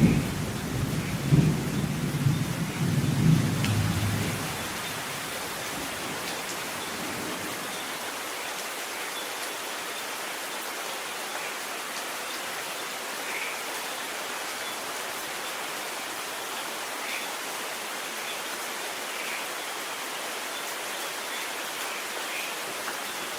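Thunder rumbling low at the start and dying away after about four seconds, leaving steady heavy rain falling with faint scattered drip ticks.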